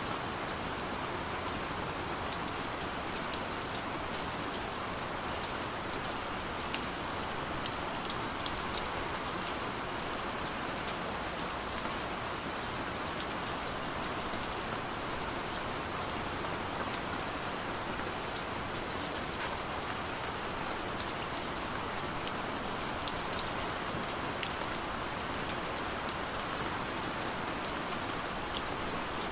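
Steady gentle rain falling, a continuous hiss with many separate drops ticking sharply at random through it.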